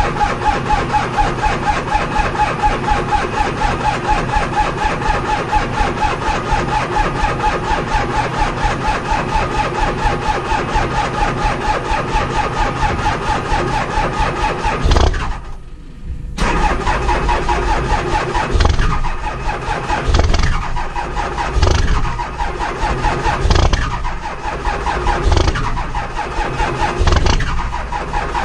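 2003 Cummins 5.9-litre inline-six turbo-diesel cranking on its starter with a steady whine for about fifteen seconds, then a brief pause. The engine then sputters and fires unevenly with heavy surges, struggling to run after a cold start at -10°F with no block heater or intake grid heater.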